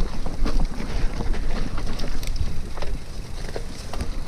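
Wind buffeting the microphone during a mountain-bike ride: a steady low rumble, with a few short clicks and rattles scattered through it.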